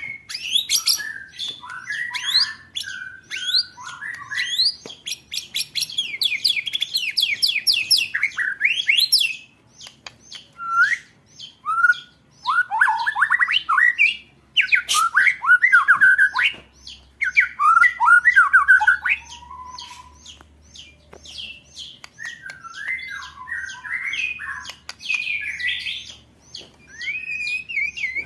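A white-rumped shama (murai batu) singing: fast rolled trills of quick sweeping notes and sharp 'shot' notes, broken by short warbled phrases, in an agitated 'ketrekan' style.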